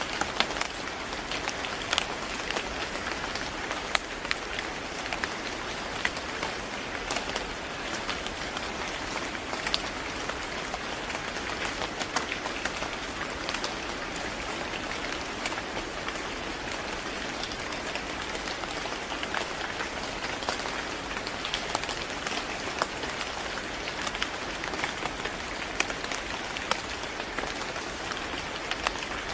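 Steady rain falling, an even hiss with many separate drops pattering and ticking on a hard surface.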